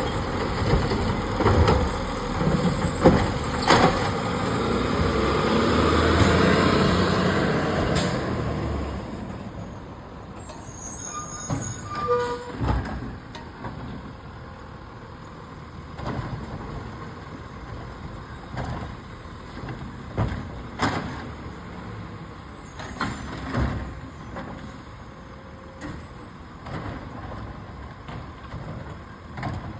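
Garbage truck running close by with clanks and knocks, loud for about the first nine seconds, then quieter with scattered sharp knocks.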